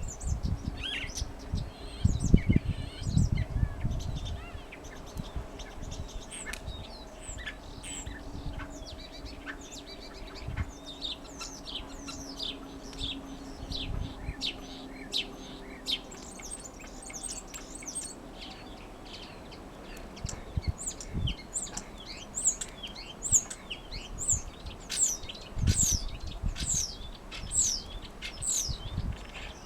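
Common starling singing: a varied run of short chirps, clicks and whistles, building near the end into a series of quick downward-sliding whistles. Low thumps are heard in the first few seconds and again near the end.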